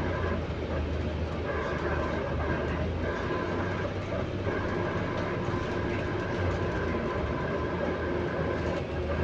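Stagecoach London bus in motion, heard from inside: a steady low drone with several higher whining tones that cut out and return every second or so. This is the weird noise the bus makes mainly while it is moving.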